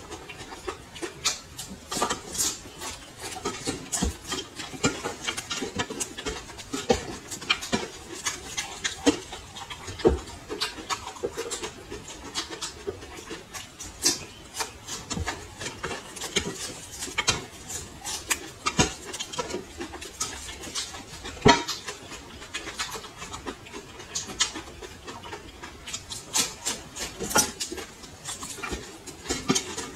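Raw red chilli peppers being bitten and chewed close to the microphone: a steady run of irregular crisp crunches and mouth clicks.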